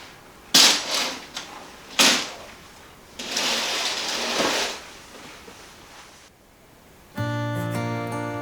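Two sharp clatters about a second and a half apart, then a steady rush of noise lasting about a second and a half, like household handling sounds; acoustic guitar music starts near the end.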